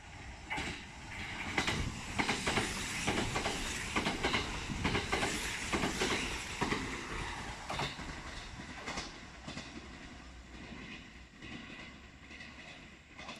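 Kintetsu 50000 series "Shimakaze" electric limited-express train running past along a station platform, with repeated clicks of its wheels over the rail joints. It is loudest for a few seconds about two to seven seconds in, then dies away.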